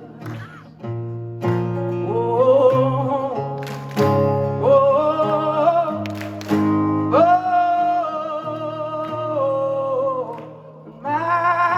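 Rock band playing live: long, wavering sung notes without words, held over bass and guitar chords.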